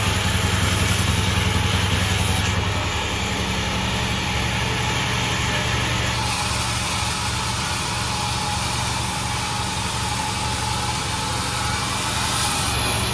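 Sawmill machine's engine running steadily, with a slight drop in level about three seconds in.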